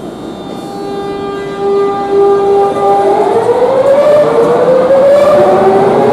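Madrid Metro train's electric traction motors whining: a steady tone, then rising in pitch from about halfway through as the train accelerates, growing louder.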